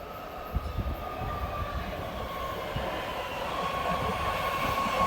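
BART Fleet of the Future Blue Line train pulling into an underground station, growing steadily louder, with a high steady tone that slowly drops in pitch over a low rumble.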